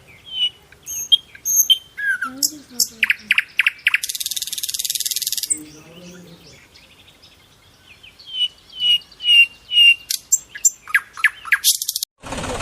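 Small birds chirping with short quick notes and a run of falling whistles, broken about four seconds in by a harsh buzz lasting over a second. A steady engine-like noise starts just at the end.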